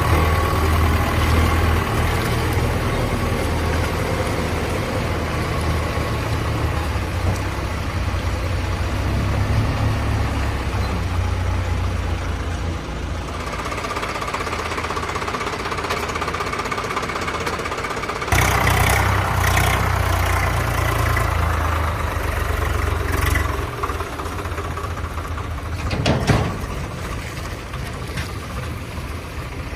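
Tractor engine running steadily. It eases off about 13 s in, then comes back louder with a sudden step about 18 s in. A few sharp knocks or clatters are heard, the clearest near the end.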